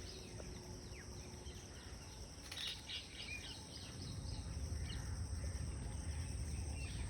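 Outdoor ambience: small birds chirping here and there over a steady high insect drone, with a low rumble that grows louder about four seconds in.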